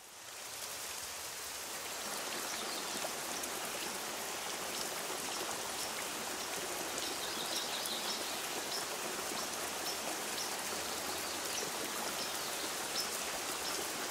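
Steady rain with scattered drop ticks, fading in over the first two seconds and then holding even.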